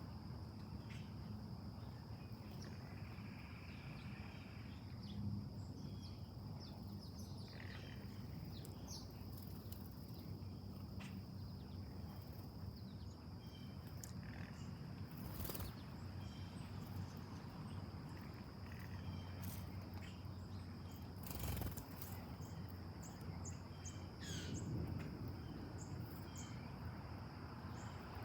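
Insects trilling in a steady high drone, with scattered short bird chirps and two sharp clicks over a low hum.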